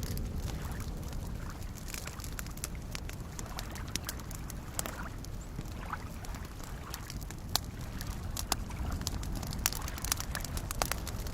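Campfire crackling, with scattered sharp snaps and pops that come more strongly in the second half, over the steady low wash of small waves lapping at a lake shore.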